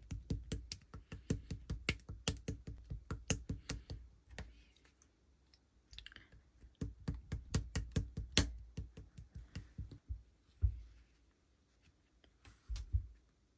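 Clay-mixed clear slime being pressed and squished by hand, giving quick runs of sticky clicks and pops, about four or five a second, in two runs with a pause between. Two softer single squishes follow near the end.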